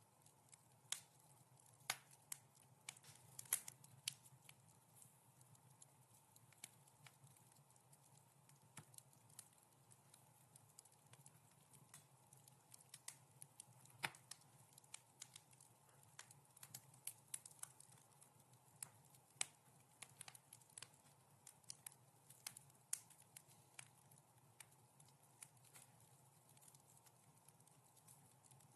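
Fireplace fire crackling softly: irregular small snaps and pops, a few of them louder, over a faint steady background.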